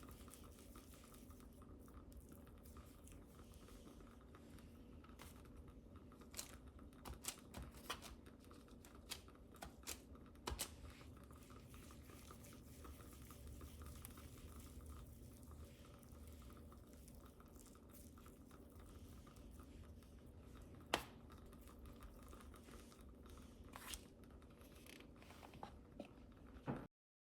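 Near silence: quiet kitchen room tone with a low hum and scattered faint clicks and taps of baking utensils and ingredients being handled. One sharper click about two-thirds of the way through; the sound cuts off just before the end.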